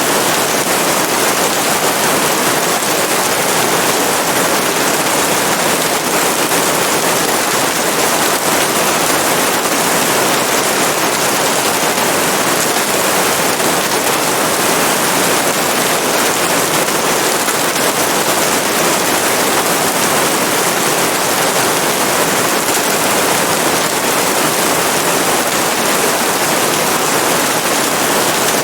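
Steady rain, a dense even hiss of falling drops that holds at one level throughout.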